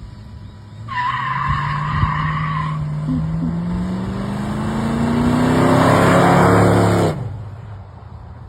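A car accelerating hard: the tires squeal for about two seconds as it pulls away, while the engine revs up steadily in pitch. The sound then cuts off abruptly.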